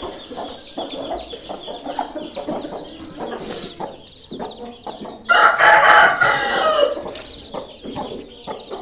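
Desi chickens clucking, with a rooster crowing once about five seconds in, loud and lasting nearly two seconds.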